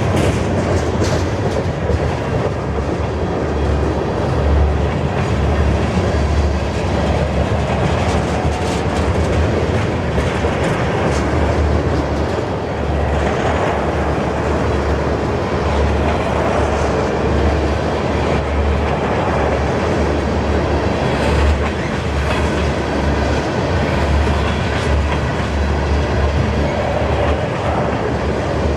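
CN freight train's cars rolling past, a steady loud rumble with the wheels clattering over the rail joints in a repeating rhythm.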